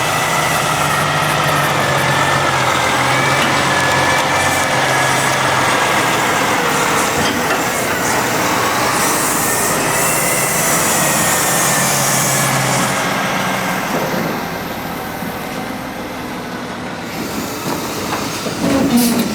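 Heavy truck and forklift engines running with a steady hum and a wavering high whine. About nine seconds in, a hiss of air lasts some four seconds, and the engines ease off and get quieter from about fourteen seconds.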